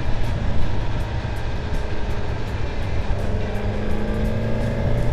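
Suzuki GSX-S1000GT's inline-four engine running under way, with wind rushing over the camera microphone; the engine note rises from about three seconds in as the bike accelerates.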